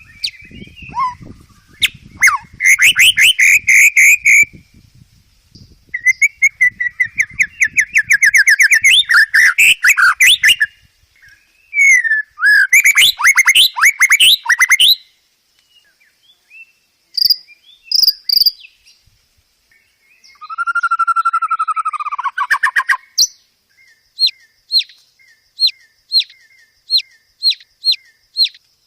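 Songbird song in varied phrases. There are several bursts of rapid, high trills, a few sharp chips, and a slurred whistle a little lower in pitch. It ends in a run of about nine short, evenly spaced notes, roughly two a second.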